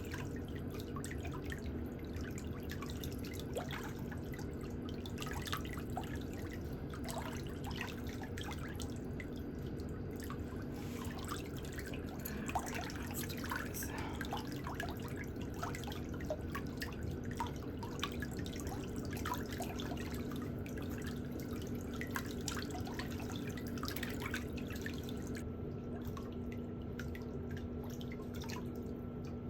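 Small, irregular clicks and light scrapes of metal pedicure hand tools working at a toenail, over a steady low hum.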